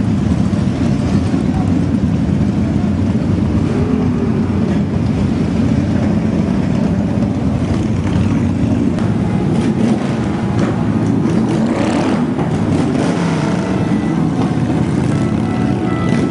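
Motorcycle engines running steadily, a continuous rumble whose pitch drifts up and down a little.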